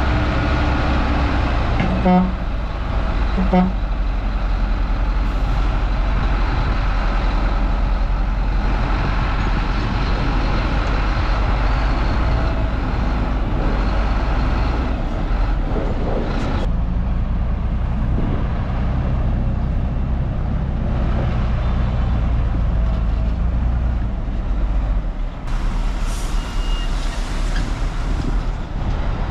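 Heavy diesel earthmoving machinery of a bulldozer and dump trucks running steadily under load. Two short beeps come about two seconds in and again a second and a half later.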